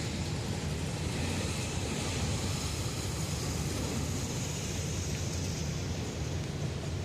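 Freight train running past, a steady low noise with a broad rushing hiss above it and no sudden changes.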